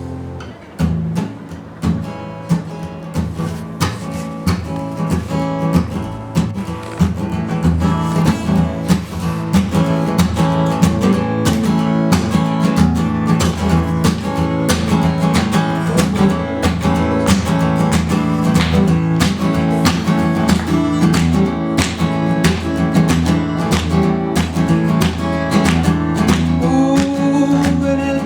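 Acoustic guitar strummed in a steady rhythm, playing a song's instrumental opening. A few separate chords ring out at first before the strumming runs on continuously.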